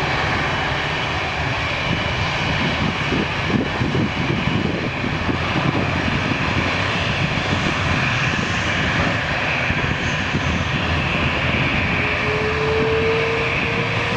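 Airbus A330 jet engines running at high thrust for takeoff: a loud, steady roar with deep rumble, and a faint steady whine joining about twelve seconds in.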